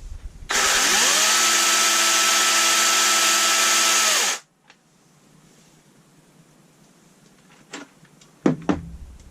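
Kobalt 24V brushless 12-inch battery chainsaw run at full trigger with no load: the motor spins up quickly to a steady whine over the rattle of the chain, holds for about four seconds, then cuts off suddenly. It is being run to check that the chain oiler is feeding oil to the bar. A couple of sharp knocks follow near the end.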